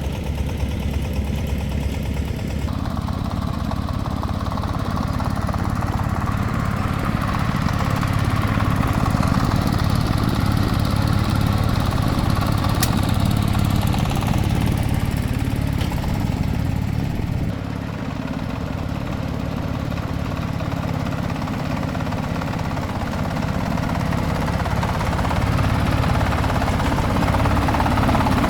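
An engine running steadily, getting louder a few seconds in, dipping briefly past the middle and rising again near the end.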